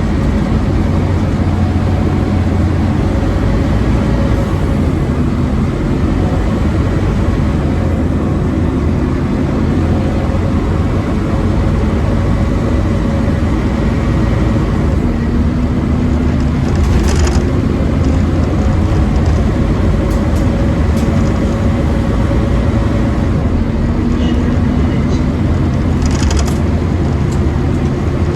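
Scania OmniCity N230UD bus's five-cylinder diesel engine running steadily with a steady whine over it, the vacuum-cleaner-like "hoover" sound that makes this bus pretty loud. A few brief clicks come about two-thirds of the way in and again near the end.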